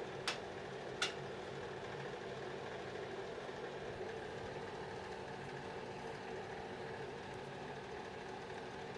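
Steady low mechanical hum with two short sharp clicks in the first second, from handling the capacitor and multimeter test leads as the meter is set to measure capacitance.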